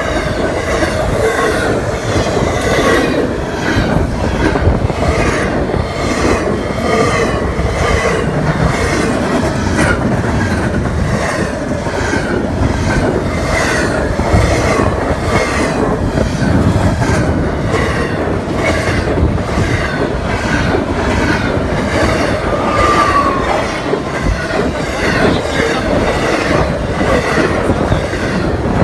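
Long intermodal freight train rolling past, a steady rumble of wheels on rail. Regular clicking sounds as the wheels pass over rail joints, and short high-pitched wheel squeals come and go.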